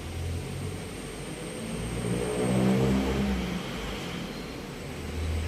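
A motor vehicle's engine going by, swelling to its loudest about halfway through and then fading.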